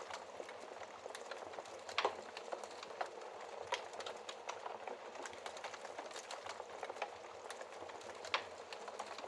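Wood fire burning in a fireplace: a steady soft hiss with irregular crackles and several louder pops.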